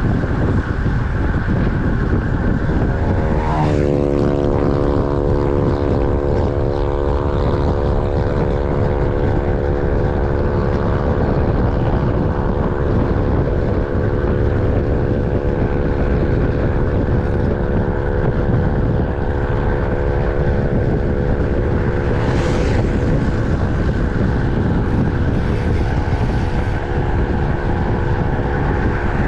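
Heavy wind rush on the microphone of a moving road bike, with a steady humming drone that glides up in pitch about three seconds in and then holds until near the end.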